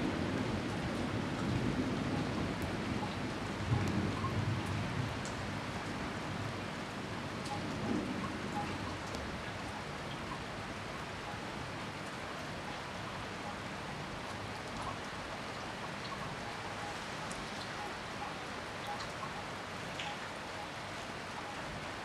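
Heavy rain falling steadily, with a low thunder rumble in the first several seconds that dies away; small drip ticks scattered through it.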